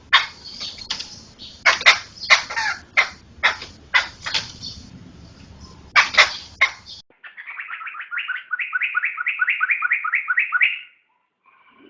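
Poksay (laughingthrush) song: loud, sharp calls for about the first seven seconds. After an abrupt cut, a fast run of repeated notes follows at about six a second, stopping shortly before the end.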